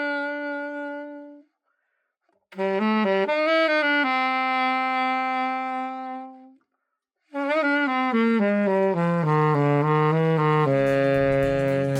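Alto saxophone playing solo melodic phrases: a held note that ends, a phrase settling on a long note, then a descending run down to a low held note. The phrases are cut apart by abrupt gaps of silence, and faint low accompaniment creeps in near the end.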